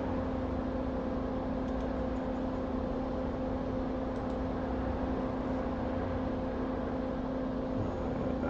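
Steady whirring hum of a small electric fan motor on a workbench, with a constant low tone and no change in speed.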